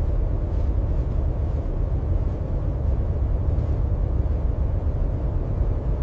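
A steady, low rumbling roar with no distinct strokes or tones.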